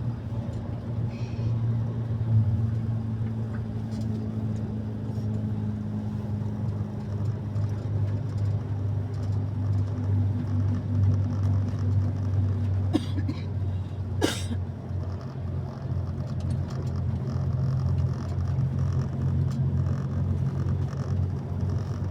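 Steady low engine drone, like a motor vehicle running, with a brief sharp high sound about two-thirds of the way through.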